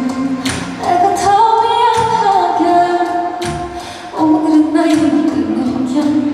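A woman singing the song live over musical accompaniment with a steady beat. She holds long notes and slides between them.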